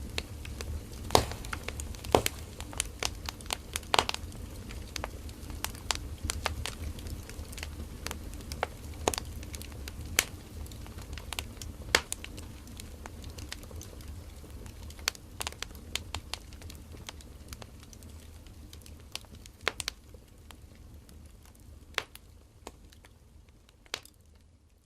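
Firewood burning in a campfire, crackling with irregular sharp pops over a low rumble of flame. The sound fades out gradually over the last several seconds.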